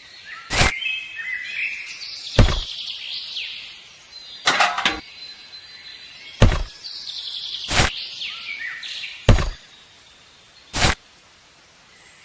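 Birds chirping in two spells, cut through by seven sharp clicks or knocks about every one and a half to two seconds; the clicks are the loudest sounds.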